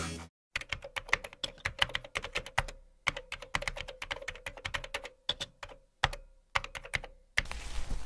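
Computer keyboard typing: quick runs of key clicks, broken by short pauses.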